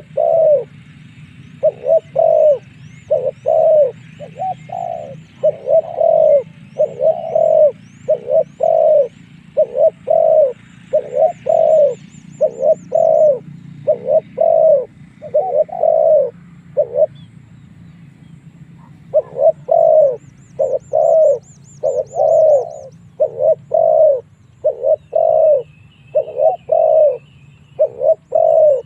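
Spotted dove cooing: a long, rhythmic series of short coos that breaks off briefly about two-thirds of the way through, then resumes. This is territorial cooing of the kind used as a decoy call to draw wild doves in to fight. Faint high trills of small birds and a low hum sit underneath.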